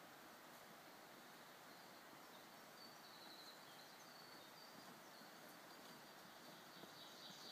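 Near silence: faint forest background hiss, with a distant bird's faint high chirps from about three seconds in.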